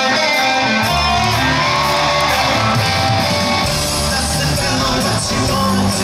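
Live rock band starting a song: electric guitar and bass riff coming in about a second in, over crowd shouting in a large hall.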